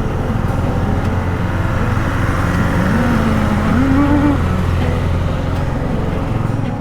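Royal Enfield Bullet's single-cylinder engine running hard while overtaking on a steep uphill climb, its note wavering up and down near the middle, with wind over the helmet microphone.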